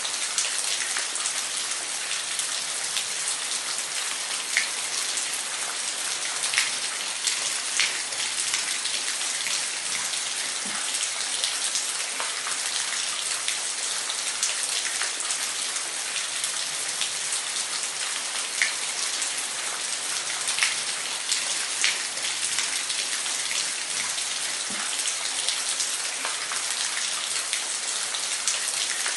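Waterfall: a steady hiss of falling water with scattered sharp splashes and drips.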